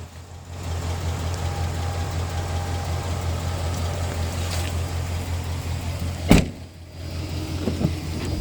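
A pickup truck's engine idling with a steady low hum. About six seconds in, a door shuts with one loud slam.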